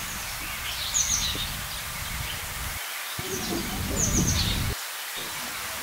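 A small bird chirping: two short, high, falling calls about three seconds apart, over a steady low outdoor rumble.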